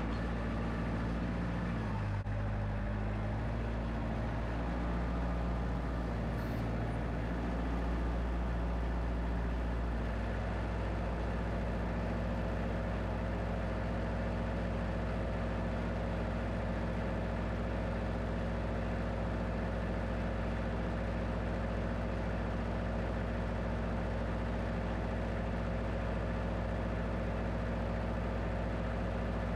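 An engine running steadily at a constant speed, its tone shifting slightly about ten seconds in.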